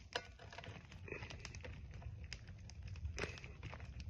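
A wooden cooking stick being forced through a raw T-bone steak: scattered small clicks and crackles.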